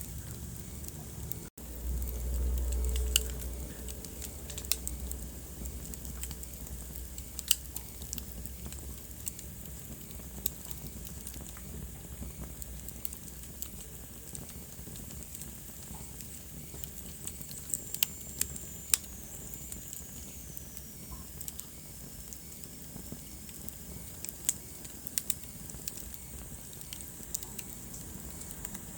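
Wood fire crackling in a fireplace: irregular sharp pops over a steady hiss of burning. There is a low rumble about two seconds in, and a faint high whistle that slowly falls in pitch past the middle.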